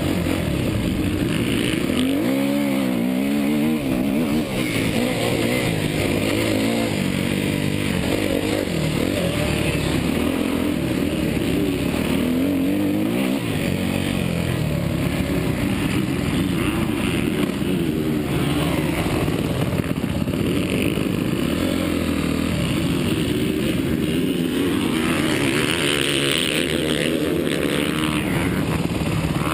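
Suzuki motocross bike being ridden on a dirt track. The engine pitch rises and falls again and again as the rider twists the throttle and shifts.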